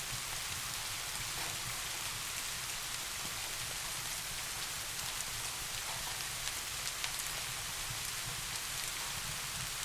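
Steady rain falling, an even hiss with scattered faint drop ticks, over a low steady rumble.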